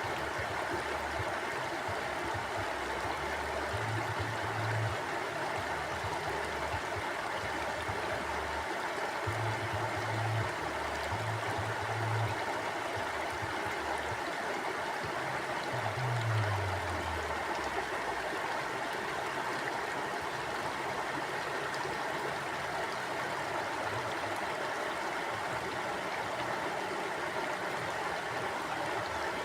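Mountain stream flowing steadily, an even rushing of water. There are a few short low rumbles in the first half, the last one dropping in pitch.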